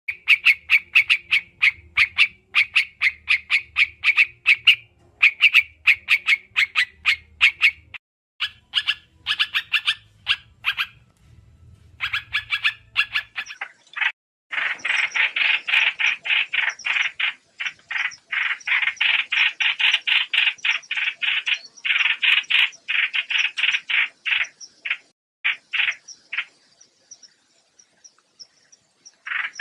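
Trao trảo bird call used as a trapping lure: fast strings of short, sharp chirping notes, several a second, broken by a few brief pauses. A faint low hum lies under the first half.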